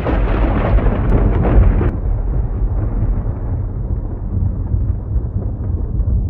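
Thunderstorm: a deep, continuous rumble of thunder and wind with a hiss over it, changing abruptly about two seconds in.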